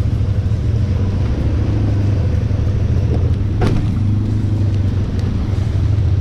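Honda Pioneer 1000 side-by-side's parallel-twin engine running steadily, the machine crawling along the trail in low range. A brief sharp high noise cuts in about three and a half seconds in.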